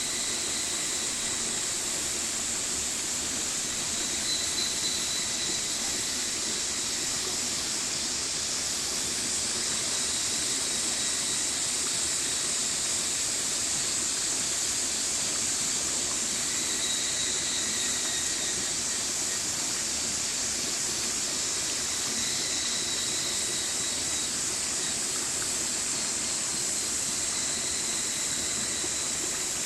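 A stream's water rushing steadily, an even bright hiss that never changes in level. A faint thin high tone comes and goes a few times over it.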